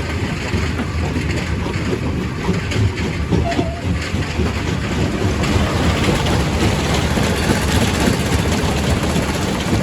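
Quarry primary rock crusher running and crushing stone: a steady low mechanical drone with a dense, continuous clatter of rock knocking and breaking.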